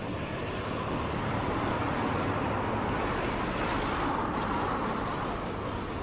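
Road traffic noise, with a vehicle passing by that swells up and fades away in the middle.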